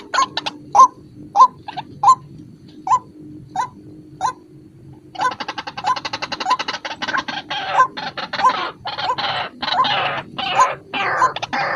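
White-breasted waterhen (ruak-ruak) calling: single hooked notes about every half second for the first five seconds, then a dense, rapid run of calls.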